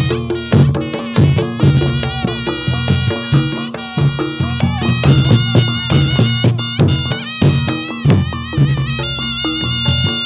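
Instrumental music of a Javanese dance accompaniment between sung verses: a high wind-instrument melody that wavers in pitch, over drums keeping a steady beat.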